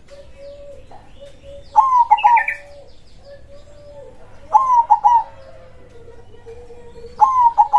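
Zebra dove (perkutut) cooing: three loud phrases of quick notes, about two and a half seconds apart, the last cut off at the end.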